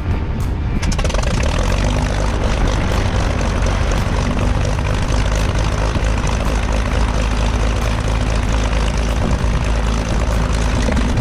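Small propeller airplane's engine running, a loud steady drone with a low hum underneath that comes in fully about a second in.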